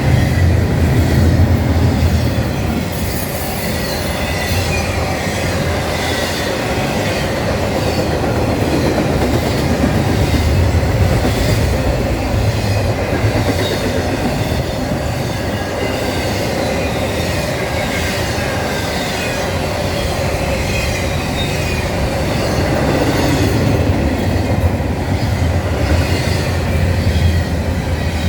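Norfolk Southern freight train rolling past, steel wheels clattering over the rail with a thin squeal of wheels on rail, steady and unbroken.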